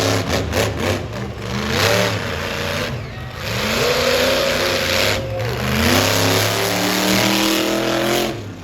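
Monster truck engine revving hard again and again, each rev climbing in pitch, holding, then dropping away. The longest rev is held for about a second and a half in the middle.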